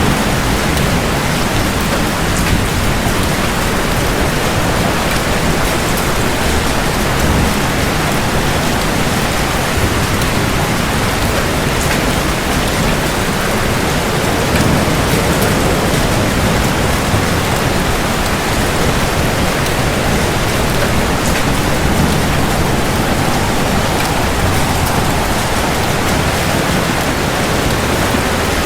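Steady heavy rain falling on hard surfaces, an even hiss with scattered sharp drop ticks.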